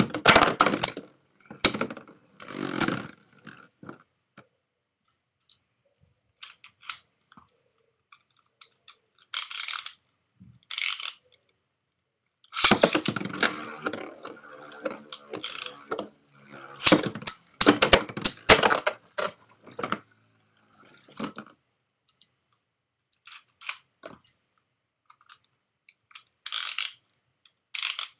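Metal-wheeled Beyblade spinning tops clashing and rattling against each other in a plastic stadium: irregular bursts of rapid metallic clicks and clatter, with quiet gaps between them and two longer runs of collisions partway through.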